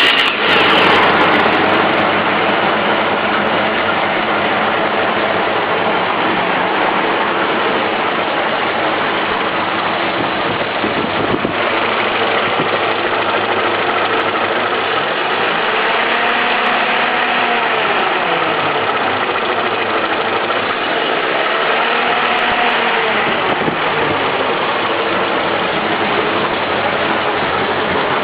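GAZ-67's four-cylinder side-valve engine idling steadily just after starting. Twice past the middle a faint pitch rises and falls.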